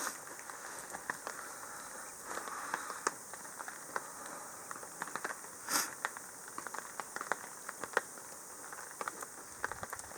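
Campfire crackling and popping, with one louder pop a little past halfway, over rain pattering on a tarp.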